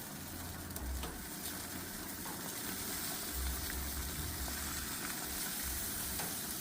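Meat skewers sizzling on a hot grill: a steady hiss with faint crackles, under a low rumble that comes and goes.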